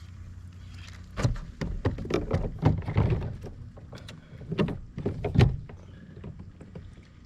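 A run of hollow knocks and thumps on a kayak, irregular and close together, from about a second in until about five and a half seconds in, as gear is handled in the boat.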